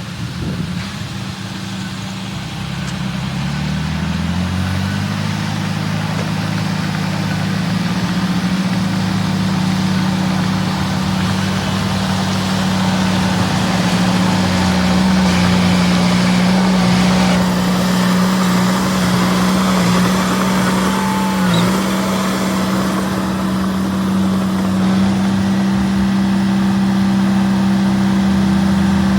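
Diesel engine of heavy construction machinery rising in revs over the first few seconds, then running steadily at high revs.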